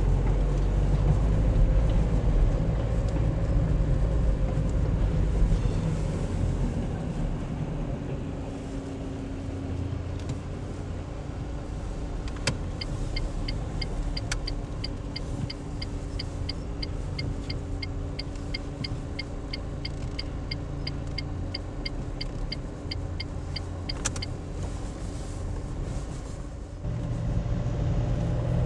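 Car driving, heard from inside the cabin: a steady road and engine rumble, louder for the first several seconds and then easing. A regular ticking runs for about ten seconds in the middle.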